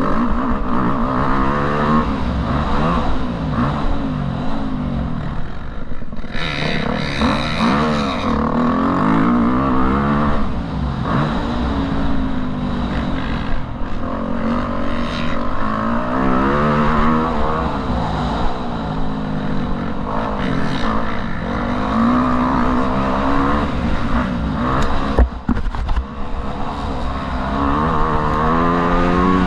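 Motocross bike engine revving up and down over and over as it is ridden, pitch climbing and dropping with each burst of throttle. A short rush of noise comes about seven seconds in.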